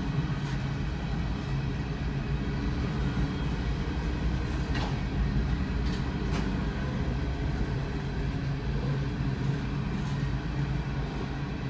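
A CSX coal train's hopper cars rolling past, a steady rumble of wheels on rail heard from inside a car, with two brief sharp sounds about five and six seconds in.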